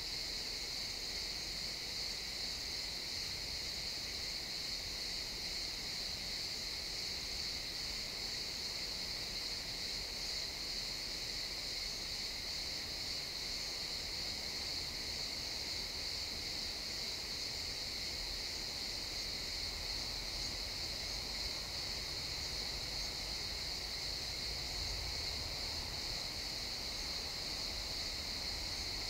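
Chorus of crickets chirping in a pine forest, a dense, steady high-pitched trill that does not let up.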